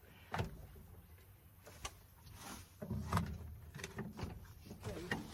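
A heavy metal chain being handled and clanking, with a few scattered knocks and rattles.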